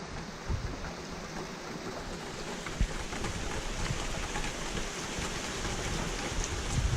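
Steady rain falling, with a few louder drop taps, one near the start, one near the middle and one at the end.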